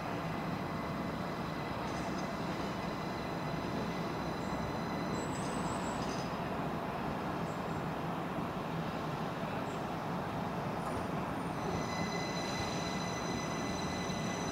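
Train running at a station: a steady rumble with thin, faint high whining tones held above it.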